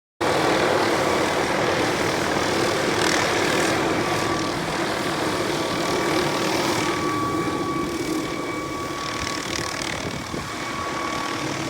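Helicopter engine and rotor running steadily, with a thin high whine over the noise. The sound cuts in suddenly at the start.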